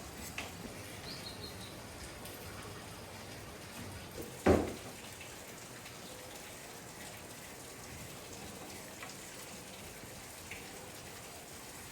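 Quiet background noise with a few faint clicks and one sharp knock about four and a half seconds in.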